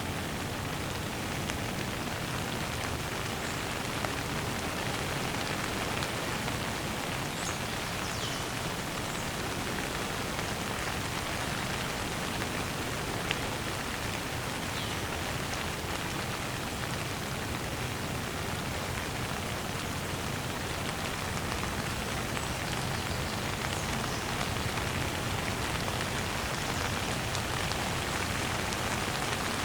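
Steady, even rain falling on a surface: a dense hiss of drops, with a couple of single sharper drop ticks standing out.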